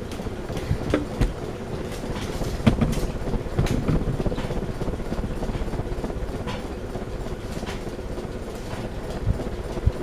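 Craftmade Phoenix ceiling fan running on high: a steady rush and rumble with a faint motor hum and scattered light clicks. The fan is wobbling badly.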